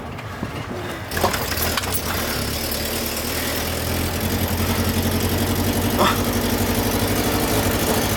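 BMW E36 car engine running with paint in place of engine oil, labouring and close to stalling. From about a second in its note comes up and grows gradually louder.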